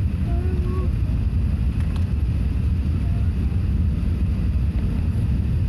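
Steady low rumble of a four-engined Airbus A380 heard from inside the passenger cabin, engine and airflow noise, with a few faint voices in the background.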